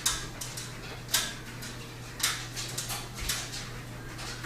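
A dog moving about: a few short scratchy noises, roughly a second apart, over a steady low hum.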